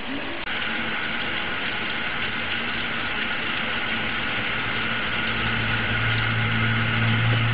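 Heavy thunderstorm rain, a steady hiss, with a low rumble swelling in the last two seconds.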